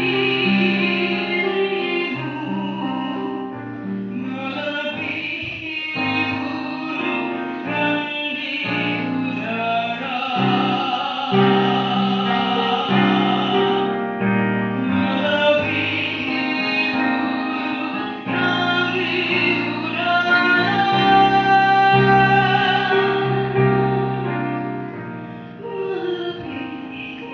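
A female solo voice singing in a pop-opera style, with long held notes and vibrato, over a piano or keyboard accompaniment. The music softens near the end.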